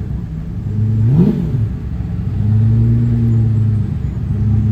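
Car engine idling, with a quick throttle blip about a second in that sends the pitch up and straight back down.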